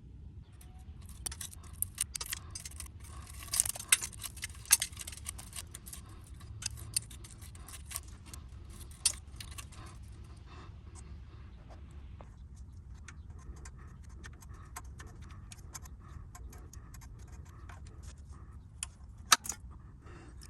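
Small metal parts and tools clinking and rattling as they are handled, in a run of irregular sharp clicks that is busiest in the first half, with two louder clanks near the end, over a steady low hum.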